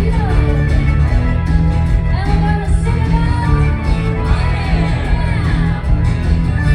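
Live rock band playing, with a voice singing over a heavy bass.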